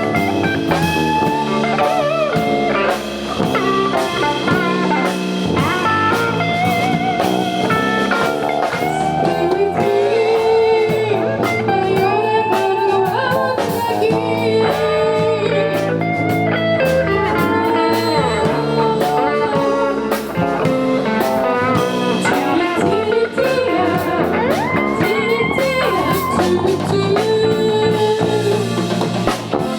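Band music led by guitar, with drums, in an instrumental passage with no singing. The guitar line bends and wavers in pitch.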